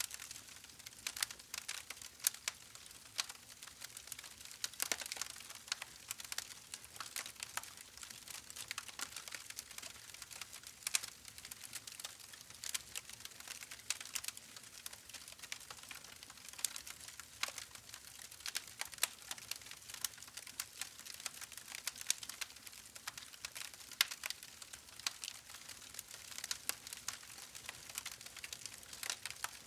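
Wood fire burning in a fireplace, crackling with many small irregular snaps and pops over a faint hiss.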